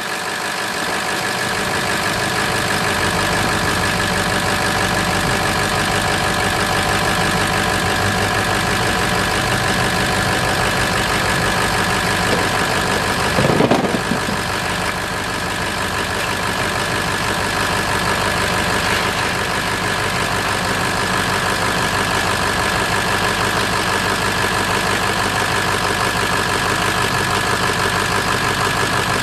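Engine idling steadily after being started following repair work, with a brief rise in level about halfway through.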